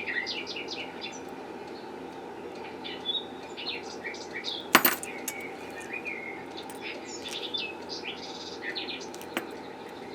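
Small birds chirping in short scattered calls over a steady background, with one sharp click about five seconds in.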